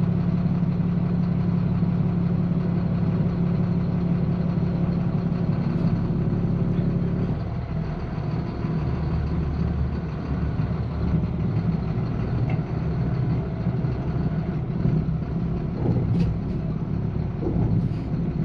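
Truck engine idling steadily, its low note changing about seven seconds in, with a few faint knocks near the end.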